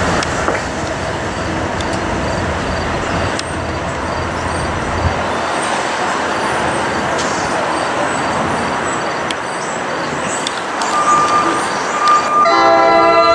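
NJ Transit electric train with multilevel coaches passing: a steady rush of wheels on rail and air, its low rumble dropping away about five seconds in. Near the end a locomotive air horn sounds, several notes held together.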